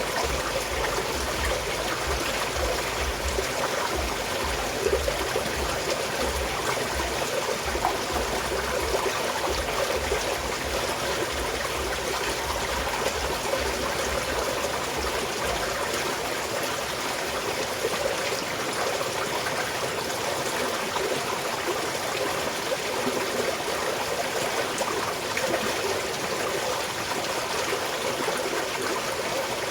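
A small mountain stream flowing and trickling over rocks, a steady babble of running water.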